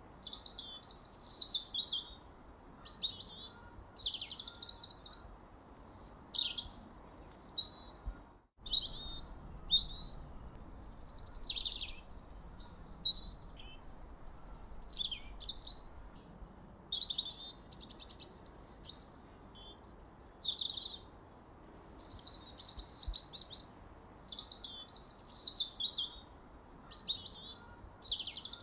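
Birds chirping and trilling, many short overlapping calls at a quick pace, over a faint steady background hiss. The sound cuts out for a moment about eight and a half seconds in, then the chirping resumes.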